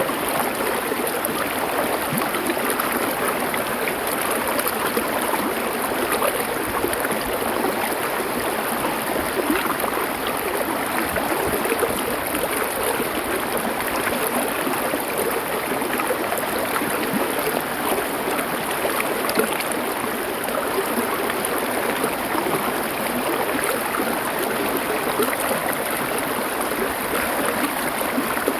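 Stream water flowing over stones: a steady, even rush of water with no breaks or changes.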